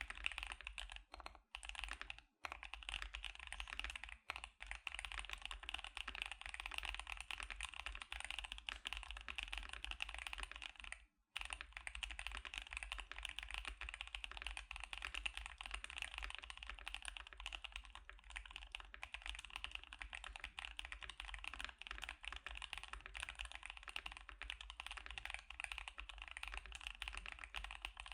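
Fast, continuous typing on a KBD75 mechanical keyboard fitted with Gazzew Boba U4T tactile switches and CannonCaps CXA Sugarplum keycaps. The keys clack in a dense stream, broken by short pauses a couple of seconds in, around four seconds, and once around eleven seconds.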